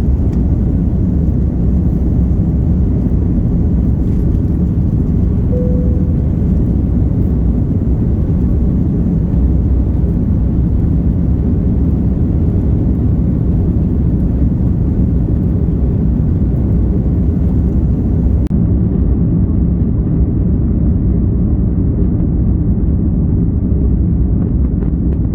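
Steady low rumble of jet airliner cabin noise inside an Airbus A330-300, engines and airflow droning evenly, with a brief faint tone about five seconds in.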